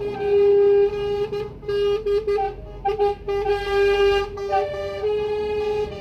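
Truck air horns sounding in long held blasts, several tones overlapping, with the higher notes changing while a lower one holds.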